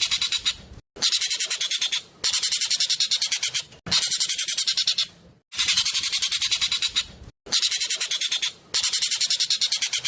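A jovin (ekek keling, Asian glossy starling) singing loud, fast runs of sharp high notes, about a dozen a second. The runs last one to two seconds each, with short breaks between them.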